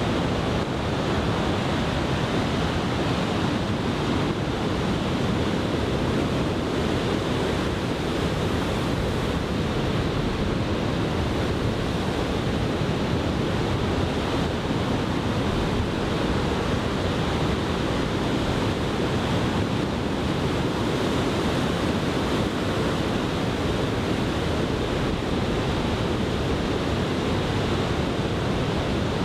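Large typhoon swell breaking and washing on the beach, a steady unbroken noise of surf, with wind on the microphone.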